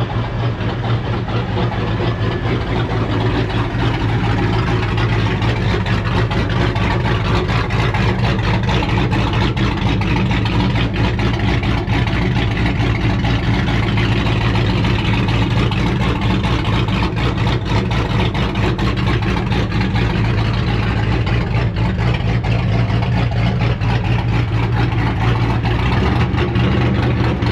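Loud engine idling steadily, with a fast, even exhaust pulse and a deep steady drone.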